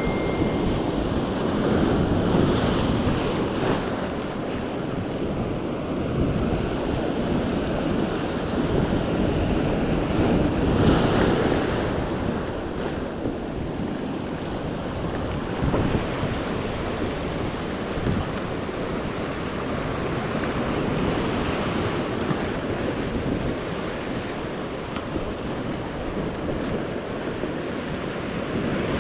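Sea surf washing in waves, with wind blowing on the microphone; the wash swells and ebbs, loudest about eleven seconds in.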